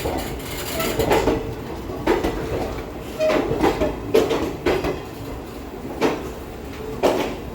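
Express passenger train rolling into a station, its wheels knocking over rail joints and points in irregular clanks, with a steady rumble beneath and a few brief squeals.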